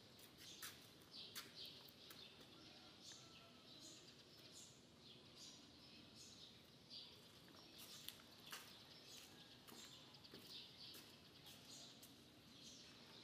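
Quiet outdoor ambience with faint, scattered bird chirps, many short high calls throughout.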